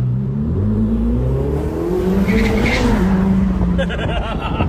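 Ferrari sports car engine revving as the car accelerates, its pitch climbing in steps over the first couple of seconds and then holding steady.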